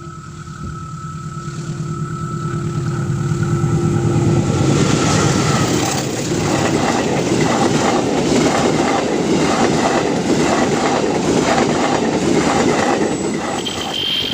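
Diesel-hauled train passing close by: the locomotive's engine drone builds for the first few seconds, then the carriages roll past with a loud rush and repeated clacks of wheels over the rail joints.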